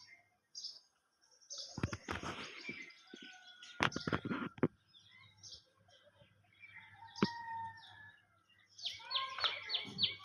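Birds chirping and calling in short, scattered notes, with a few knocks about two and four seconds in. Near the end a rapid run of repeated high chirps sets in, about four a second.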